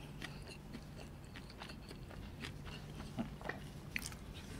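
A person chewing a mouthful of beef Wellington in puff pastry, close to the microphone: faint, scattered mouth clicks, a few a second.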